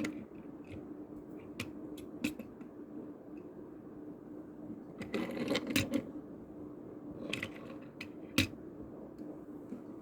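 Small scattered clicks and taps from die-cast toy cars being handled and set down, with a brief cluster of clatter in the middle and a sharp tap near the end, over a steady low hum.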